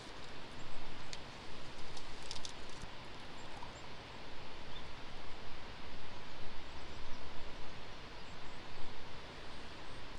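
Wind on the microphone outdoors: a noisy hiss, heavy in the lows, rising and falling unevenly in gusts, with a few faint clicks.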